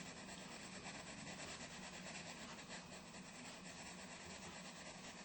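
Faint scratching of a black colouring tool shading on a colouring-book page, in quick, even back-and-forth strokes.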